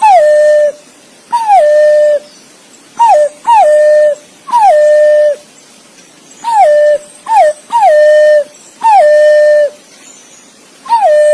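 Green pigeon (punai) calling: a series of about ten fluty whistles, each a quick downward hook into a steady held note, most lasting well under a second and a couple cut short, repeated at uneven intervals.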